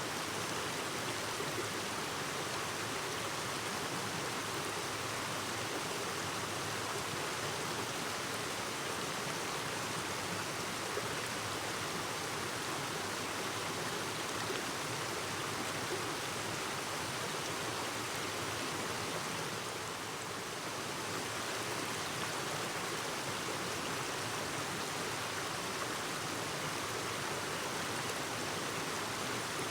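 Clear mountain stream babbling over rocks, a steady rush of flowing water with a brief slight dip about two-thirds of the way through.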